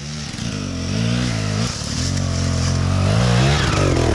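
Enduro dirt bike engine running close by, revved up and down several times between idles.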